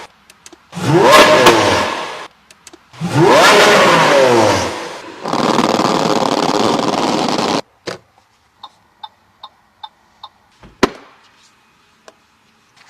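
Lamborghini Veneno Roadster's 6.5-litre V12 revved hard twice, the pitch rising each time, then held at high revs for about two seconds before cutting off suddenly. Afterwards come a row of faint light ticks and one sharp knock.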